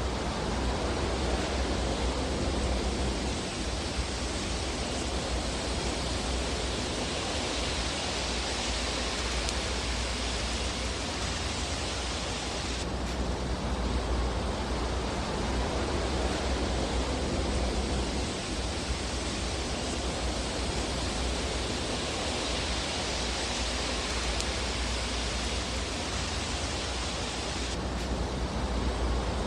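Steady rushing, hiss-like fireplace ambience over a low rumble, its upper hiss slowly swelling and easing, with an abrupt shift about 13 seconds in and again near the end; no distinct crackles stand out.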